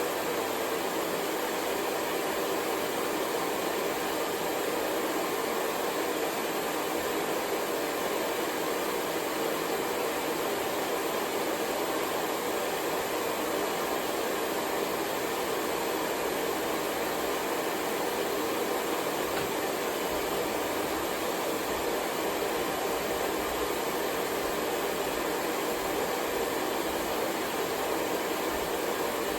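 Hair dryer blowing steadily: an even, unchanging rush of air and motor noise.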